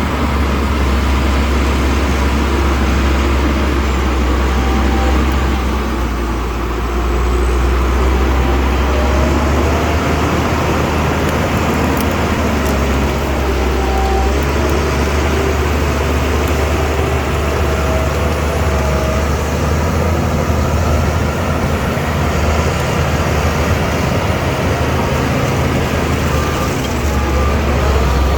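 Shantui DH17C2 bulldozer's diesel engine running steadily with a deep drone, working under load. Near the end a reversing alarm starts beeping at an even pace.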